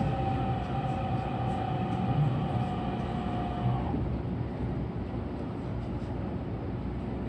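Electric commuter train running at reduced speed, a strong-wind speed restriction in force: a steady low rumble of wheels on rail. A held whine runs over it and stops about four seconds in.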